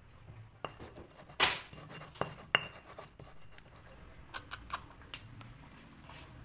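Kitchen utensils and dishes clinking and knocking against each other, about half a dozen separate strikes; the loudest comes about a second and a half in, and one soon after rings briefly.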